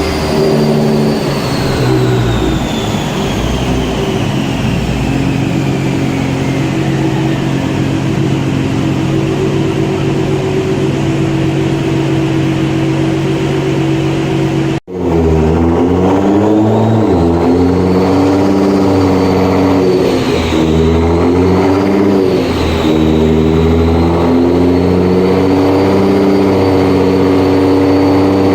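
Nissan GT-R R35's twin-turbo V6 running on a dyno through a catless straight-pipe exhaust, loud throughout. In the first half the engine note holds fairly steady while a high whine falls away; the sound cuts off for an instant about halfway, and after that the engine note rises and falls as it is revved.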